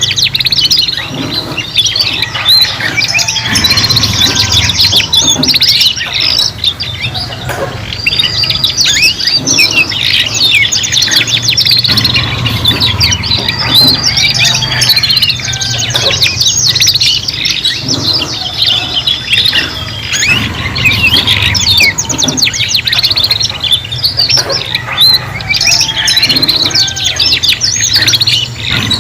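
Several domestic canaries singing at once, a dense, unbroken stream of rapid trills, rolls and chirps, over a steady low hum.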